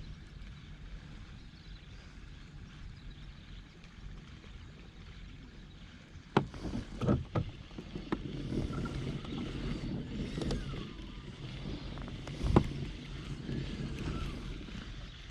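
Knocking and handling noise aboard a fishing kayak on the water. A low steady rumble runs for about six seconds, then several sharp knocks follow, with the loudest about twelve seconds in.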